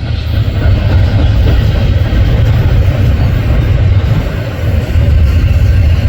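Norfolk Southern freight train's cars rolling past close by: a loud, steady low rumble of wheels on rail.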